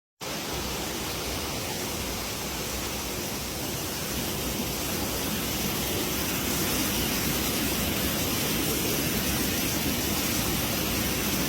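Steady rush of a waterfall, with no pitch or rhythm, growing slightly louder midway; it starts and cuts off abruptly.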